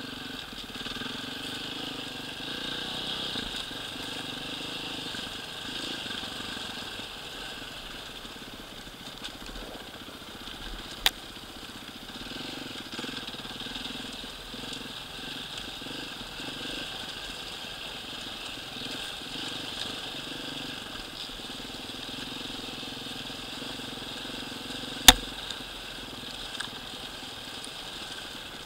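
Enduro dirt bike engine running at low, fairly steady revs as the bike rides a rough trail. Two sharp knocks cut through it, a faint one about 11 seconds in and a louder one about 25 seconds in.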